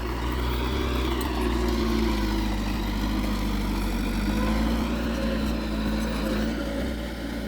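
Heavy diesel engine of earthmoving machinery working, its pitch rising about a second in and then wavering up and down with the load.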